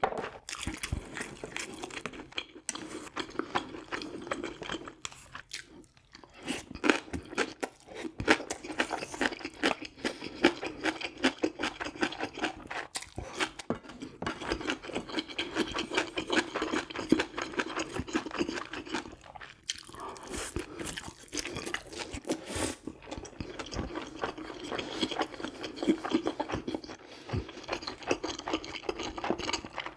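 A person chewing and crunching food close to the microphone, in an irregular run of bites with a few brief pauses.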